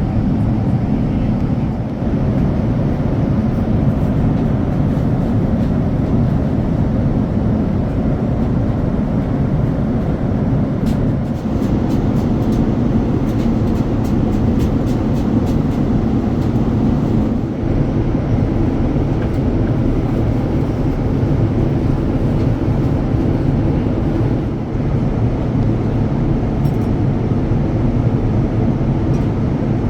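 Steady, loud rumble of engine and airflow noise heard from inside the cabin of a Boeing 787-9 airliner, with a few faint light clicks about a third of the way in.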